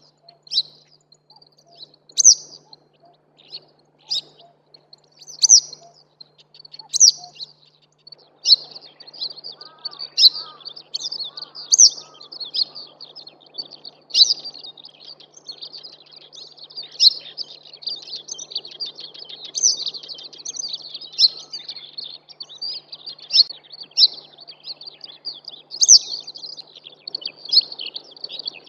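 Yellow wagtail singing: short, high chirping phrases, spaced about a second and a half apart at first, then coming thick and almost continuous after about eight seconds.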